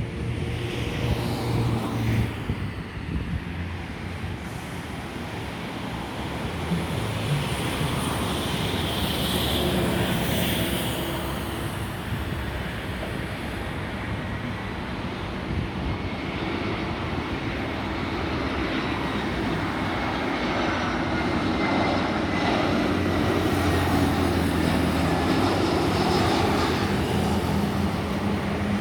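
Airbus A320's turbofan engines on final approach: a continuous jet rumble with a thin whine, slowly growing louder as the airliner comes nearer.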